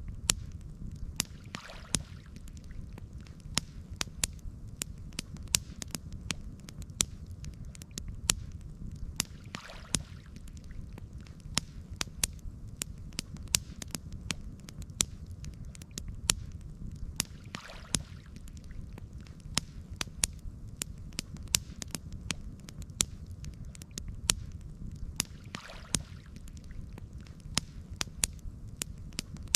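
Campfire burning, with frequent sharp crackles and pops over a steady low rumble, and a soft swish about every eight seconds.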